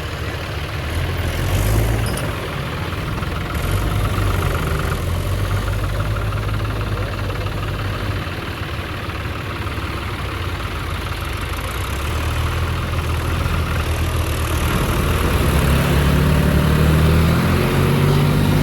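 Tractor diesel engine running steadily, then revved harder about fifteen seconds in, its pitch rising and its sound getting louder.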